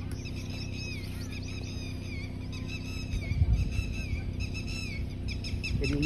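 Small birds chirping over and over, the chirps coming thicker near the end, with a low thump about three and a half seconds in.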